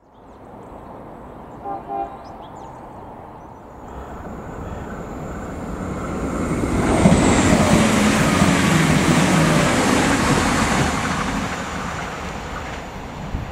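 Two short horn toots about two seconds in, then an Irish Rail 22000 Class diesel multiple unit passing at speed: a rumble of wheels and underfloor diesel engines that builds from about four seconds, is loudest in the middle, and fades as the train moves away.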